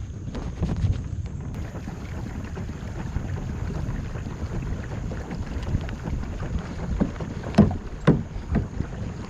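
Kayak on a creek, with low wind rumble on the microphone throughout and two sharp knocks about half a second apart near the end.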